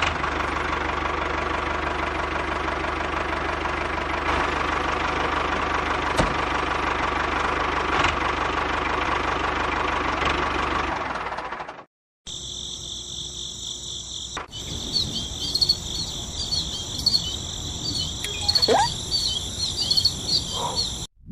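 A motor-driven machine runs steadily and cuts off abruptly about twelve seconds in. After a brief gap, insects chirp in a steady high-pitched chorus, with a short rising call near the end.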